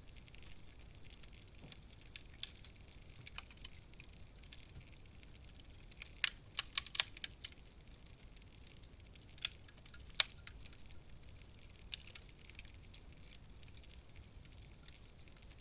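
Wood fire crackling: scattered sharp pops and snaps over a soft hiss. A quick run of snaps comes about six seconds in, and a single loud pop a few seconds later.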